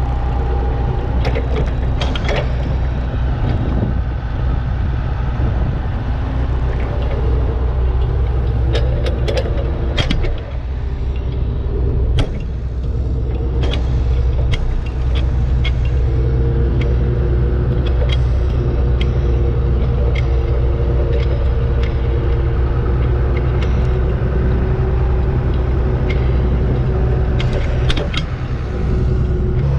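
Tractor engine running steadily with a low drone, with scattered sharp clicks and clanks of metal throughout.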